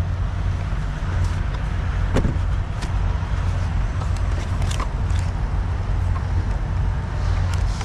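Steady low rumble of an idling vehicle engine, with scattered light clicks and taps over it.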